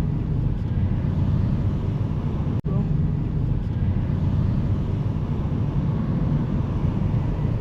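Steady low rumble of a car on the move, engine and road noise heard from inside the cabin. The sound cuts out for an instant about two and a half seconds in.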